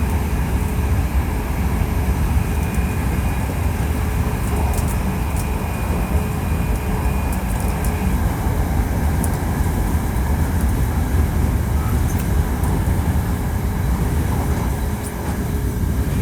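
Hankyu 1300 series electric train running at speed, heard from inside the car: steady wheel-and-rail rumble with thin steady whine tones from its Toyo IGBT inverter drive. One of the higher tones cuts out about halfway through.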